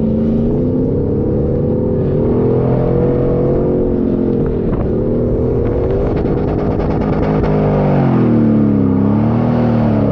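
A 4x4's engine running hard while driving, its pitch rising and falling as the throttle is worked, with a dip near the end.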